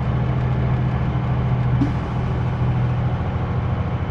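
Diesel engine of a semi-truck running steadily with a low, even drone, with a brief click about two seconds in.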